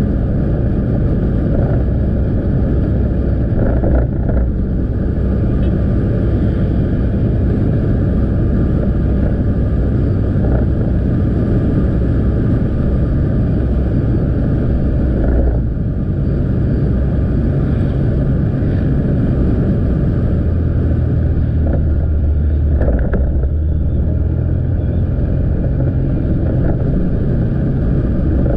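Motorbike engine running while riding, heard up close from the bike, with road and wind noise over it. The engine sound dips briefly twice and settles into a deeper, stronger note in the latter part.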